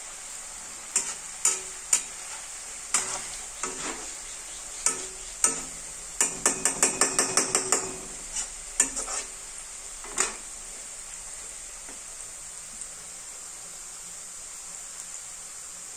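Shredded potato sizzling as it deep-fries in oil in a wok, with a perforated metal skimmer clinking and scraping against the pan as it stirs, including a quick run of strokes about six to eight seconds in. After about ten seconds only the steady sizzle is left.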